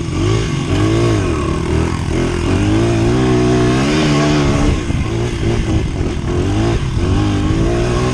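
Dirt bike engine revving as it pulls away and rides, its pitch rising and falling with the throttle and dipping briefly several times in the second half, with rushing noise on the helmet-mounted microphone.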